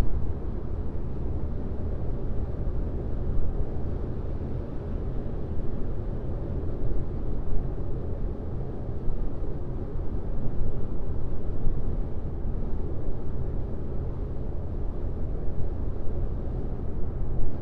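Steady road and tyre noise of a car driving on a highway: an even low rumble with little hiss.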